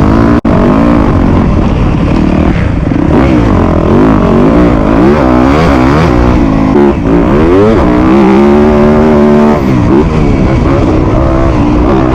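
Dirt bike engine at full throttle, its pitch climbing and dropping again and again as it revs through the gears, with a steadier stretch about eight seconds in. The sound cuts out for an instant about half a second in.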